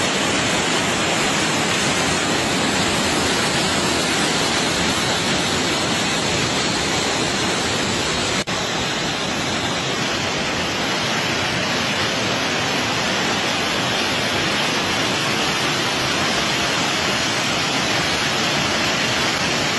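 Floodwater rushing loudly and steadily, a dense unbroken roar of water, with a brief break about eight and a half seconds in.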